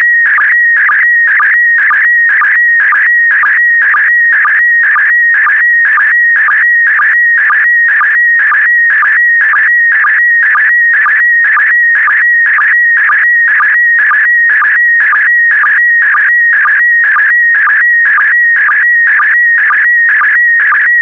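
PD120 slow-scan television (SSTV) image signal: a continuous warbling electronic tone whose pitch jumps rapidly as it carries picture data, broken by a short regular pulse about twice a second, the line sync marking each new pair of image lines.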